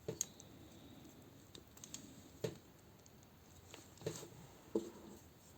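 Faint, scattered clicks of small plastic toy parts being handled and worked apart from a tight peg joint, a handful of clicks a second or two apart.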